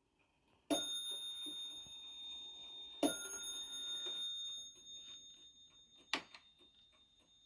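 Clock striking twice on a bell, about two and a half seconds apart, each strike ringing on and slowly fading. A sharp mechanical click follows about six seconds in.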